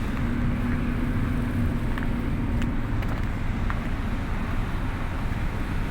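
Engine running with a steady low drone; a steady hum in it fades out about halfway through, and there are a few faint clicks.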